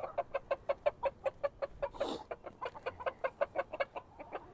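Chickens clucking in a fast, even run of short clucks, about seven a second, with one louder, noisier sound about two seconds in.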